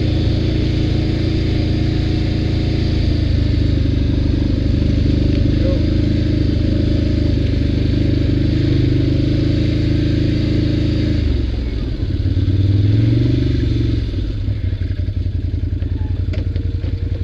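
ATV engine running at a steady pace, easing off about eleven seconds in, revving up and back down briefly, then settling to a lower, pulsing idle near the end.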